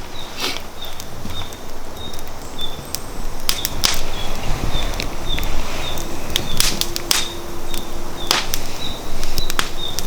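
Firewood burning in a fire pit, crackling with sharp, irregular pops, some much louder than others. An insect chirps steadily behind it, about twice a second.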